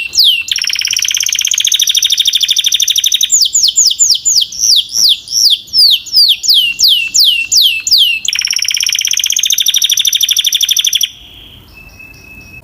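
Belgian canary singing. Its song alternates runs of quick, downward-sweeping whistled notes, several a second, with long, rapid, buzzy trills, and stops abruptly about eleven seconds in.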